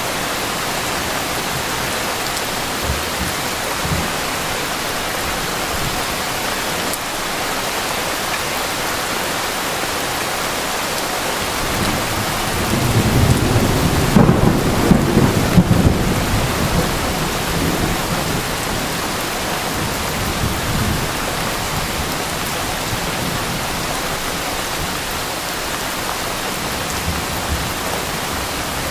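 Steady rain falling, with a low roll of thunder rumbling in about halfway through, peaking for a few seconds and then fading back into the rain.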